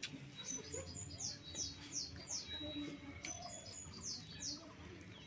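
A small bird chirping: two runs of quick, high, falling notes, about two or three a second. A sharp click comes right at the start.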